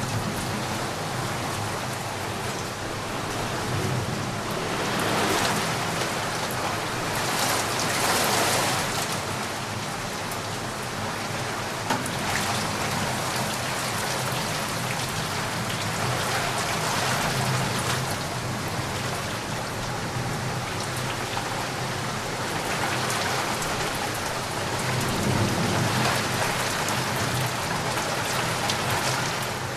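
Heavy rain falling steadily, its hiss swelling and easing every few seconds, with low rumbles of thunder about five seconds in and again near the end.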